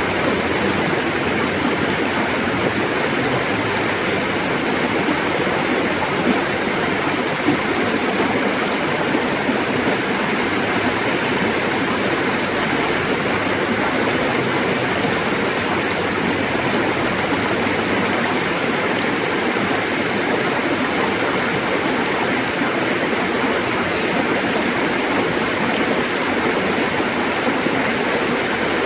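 River water flowing and splashing over rocks, a steady rushing sound without pause.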